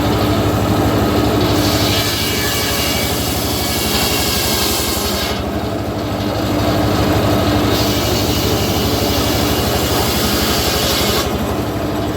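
Homemade engine-driven circular sawmill ripping a teak log: the engine runs steadily while the blade cuts through the wood twice, each cut lasting about four seconds, with a short spell of just the engine between.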